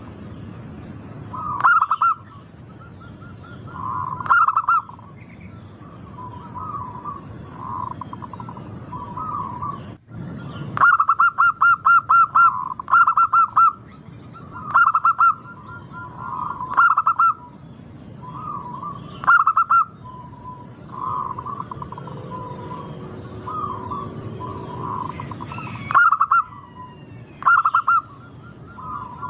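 Local zebra doves (perkutut) singing: phrases of rapid, clipped cooing notes that repeat every two to three seconds, with softer coos between them.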